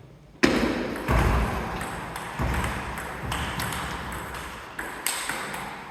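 Table tennis ball being played in a rally: a series of sharp knocks of the ball against bats and table at uneven spacing, with some dull thuds among them.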